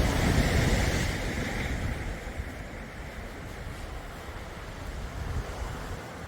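Sea waves washing onto the shore: one wave surges in loudly at the start and fades over about two seconds, leaving a steady hiss of surf.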